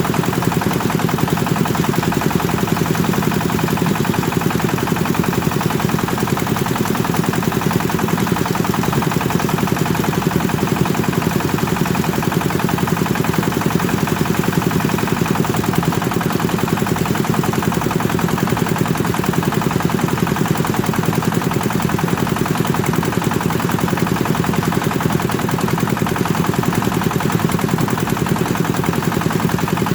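Kubota single-cylinder diesel engine running steadily under load, driving a rice thresher, with a rapid, even knocking exhaust beat.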